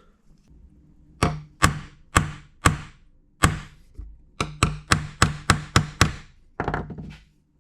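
Hammer tapping the cut-down pushrod's end back into its tube: four spaced sharp metallic knocks, then a quicker run of about nine taps, then a duller knock near the end.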